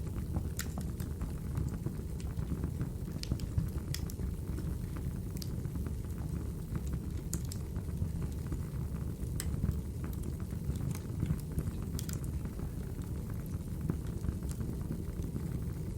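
Wood logs burning in a fireplace: a steady low rumble of flame with scattered sharp crackles and pops at irregular moments.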